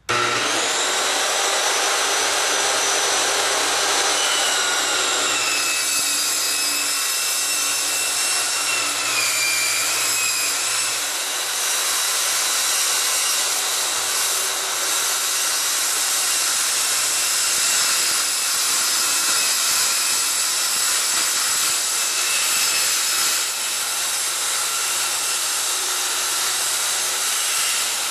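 Circular saw plunge-cutting through a steel door skin: a continuous high metallic whine made of several steady pitches over a harsh hiss, starting abruptly.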